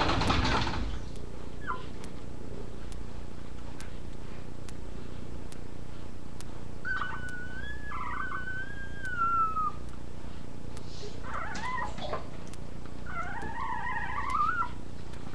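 Puppies whining in high-pitched squeaks: a brief squeak, a long wavering whine about seven seconds in, then several shorter rising and falling cries near the end.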